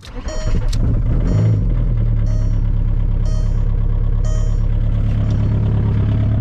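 2002 VW Beetle's ALH 1.9-litre TDI diesel cranking and catching almost at once on a cold start at about 15 degrees, then settling into a steady idle. A chime dings about once a second over the first few seconds.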